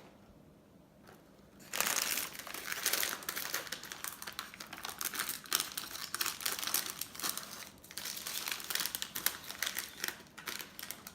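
Ice cream packaging crinkling as it is handled and opened: a dense run of crackles that starts about two seconds in and goes on with brief dips until near the end.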